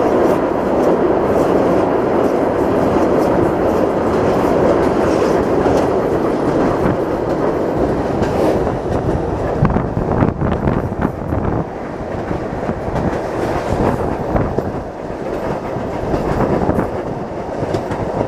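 Train running along the track, heard from inside the carriage: a steady rumble of wheels on rails with clicks over the rail joints, thickest about halfway through. The rumble eases a little in the second half.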